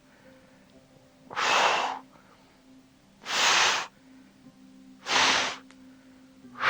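A person breathing out hard through the mouth four times, about once every two seconds, each breath a short breathy hiss. The breaths are paced to push against a held knee-to-chest stretch.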